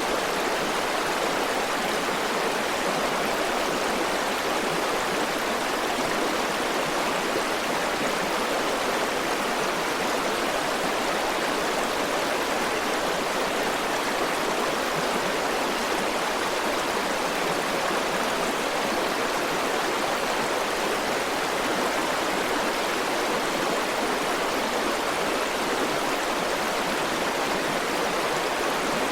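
River water flowing over rocks: a steady, continuous rushing and babbling with no breaks.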